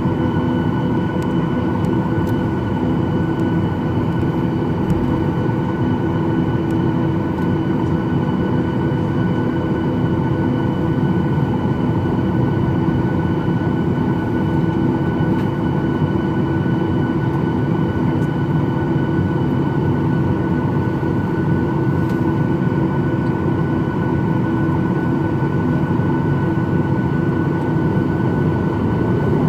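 Cabin noise inside a Boeing 737-800 while taxiing: the CFM56-7B engines run steadily at low power over the rush of cabin air, with several steady whining tones and no change in level.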